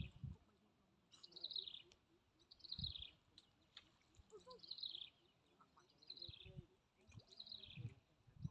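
A bird calling over and over, a single high note that falls in pitch, repeated five times about every one and a half seconds. There are a few low bumps between the calls.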